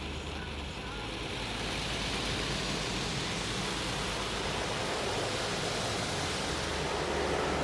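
High-pressure water jets of a touchless car wash spraying over a car: a steady rushing hiss that grows a little louder near the end.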